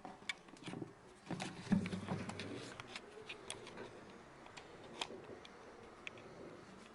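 A run of light clicks and knocks from the LG front-loading washing machine and its load of jeans, with a short low rumble about one to three seconds in.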